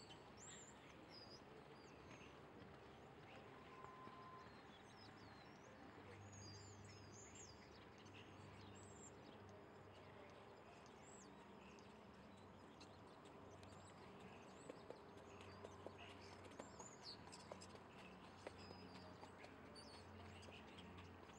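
Very quiet outdoor background with small birds chirping many times over. A few faint clicks come in the second half.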